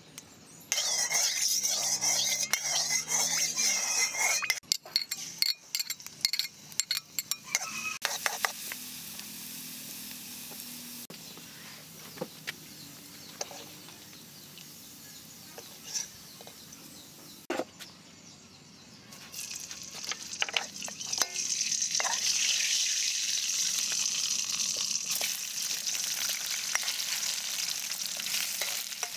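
Hot oil sizzling and frying in a steel wok, with a metal spatula scraping and tapping against the pan. The sizzle is loud for the first few seconds, drops to a quieter hiss with scattered spatula clicks in the middle, and comes back loud about two-thirds of the way through as pieces of eel fry.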